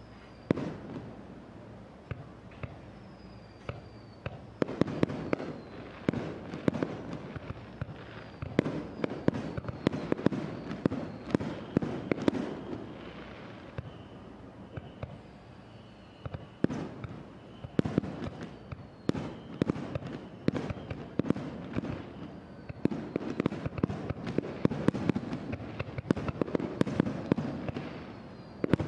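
Aerial fireworks display: shells bursting in a rapid, irregular run of sharp bangs and crackles, thickest in two heavy salvos, with faint short falling whistles between the bursts.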